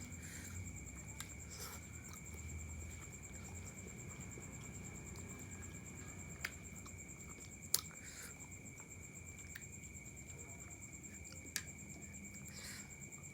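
Faint chewing and slurping of mie ayam (chicken noodles), with three sharp clicks about halfway through and near the end, over a steady high-pitched tone.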